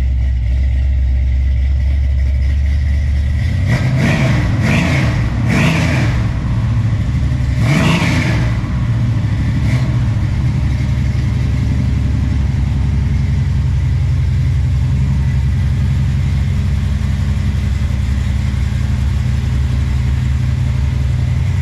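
Big-block 454 Chevy V8 idling, blipped four times in quick succession a few seconds in, then settling back to a steady idle.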